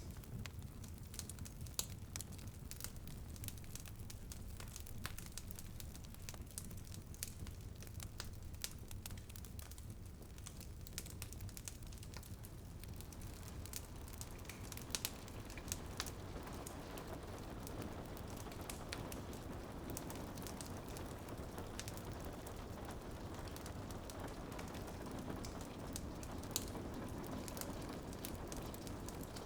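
Wood fire crackling and popping in a fireplace, with irregular sharp snaps over a low steady rumble, and rain pattering on a window, the rain wash growing a little louder about halfway through.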